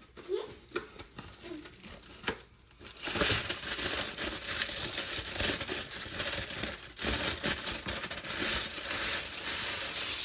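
Aluminium foil crinkling loudly and continuously as it is handled and spread over a roasting pan. Quieter rustles and light knocks come first, and the crinkling starts about three seconds in.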